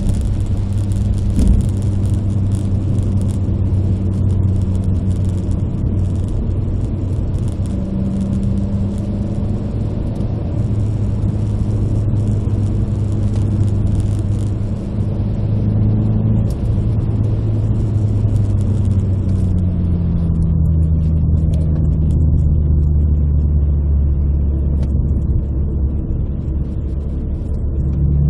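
Renault Clio RS 172's 2.0-litre four-cylinder engine heard from inside the cabin, running steadily at cruising revs over tyre and road noise. About twenty seconds in the engine note drops lower and the road hiss lessens; a single knock sounds a second or two in.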